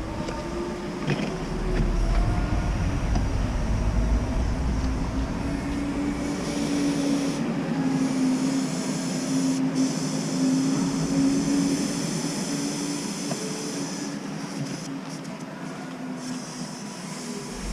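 Mini excavator's diesel engine running, its pitch drifting slightly up and down as the machine works.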